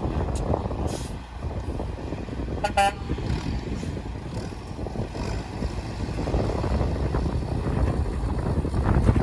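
Heavy vehicle engine running steadily, with one short horn toot about three seconds in.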